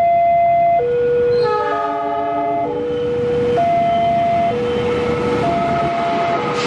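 Railway level-crossing alarm sounding its two-tone warning, a high and a low note alternating about once a second. About a second and a half in, a train horn sounds a chord of several notes for about a second, and a rushing noise from the train builds beneath the alarm.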